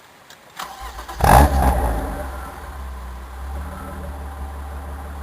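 1994 BMW 325is E36's 2.5-litre straight-six starting through its stock exhaust. A brief crank catches a little over a second in with a loud flare of revs, then settles into a steady idle.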